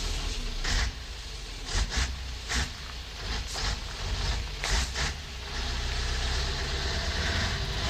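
Scania LBS 141 truck's 14-litre V8 diesel idling steadily, with several short hisses over it in the first few seconds.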